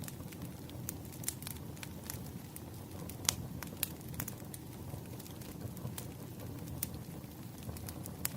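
Burning firewood crackling: irregular sharp pops over a low, steady rumble, the loudest pop about three seconds in.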